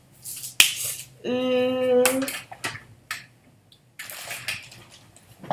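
Handling noises as a squishy toy is picked out: a sharp click early on and bursts of rustling. About a second in, a child's voice holds one drawn-out 'mmm'.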